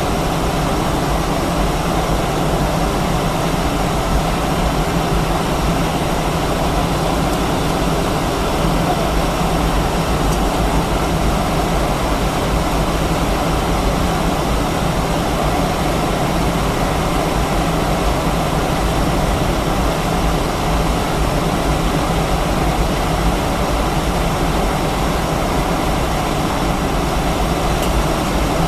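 Cabin noise aboard an Airbus A319-132, its IAE V2500 turbofan engines running at a steady, unchanging level with a continuous low rumble and airflow hiss.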